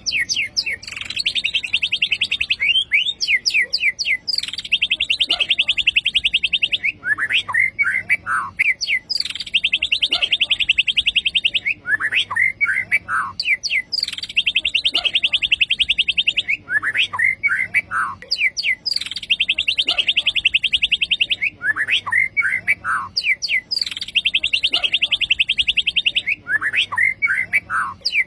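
White-rumped shama (murai batu) song: the same phrase repeated about six times, each a fast buzzy trill lasting about two seconds followed by a few falling slurred whistles. The phrase recurs at very even spacing, like a looped recording.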